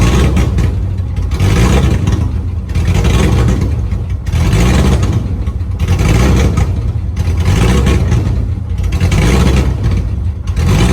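Ford Coyote 5.0 V8 in a 2013 Mustang running on open long-tube headers with no mufflers: a loud, raw exhaust rumble that surges and eases about every second or so.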